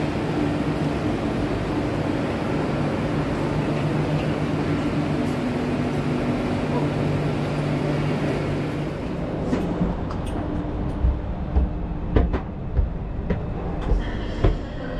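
Passenger train running, a steady rumble with a low hum. About nine seconds in the hum fades and a series of sharp, irregular knocks follows.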